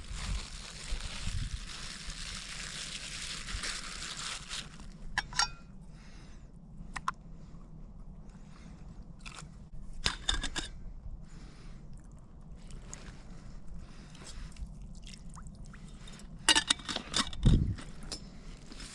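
Knife cutting raw potato on a board: a series of short crunchy cuts and knocks, with a louder knock near the end. An even hiss runs under the first few seconds.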